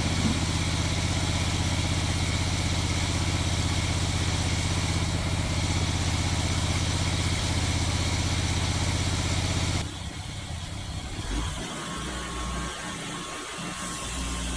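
Sawmill engine running steadily at a constant speed. About ten seconds in, it cuts off abruptly to a quieter, uneven low mechanical hum.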